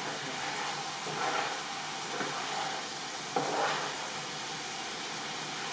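Food sizzling as it fries in a hot pan, getting suddenly louder about three and a half seconds in, over the steady whir of a kitchen exhaust fan.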